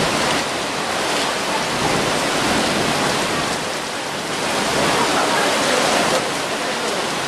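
Heavy tropical downpour: dense, steady rain hissing and splashing without a break.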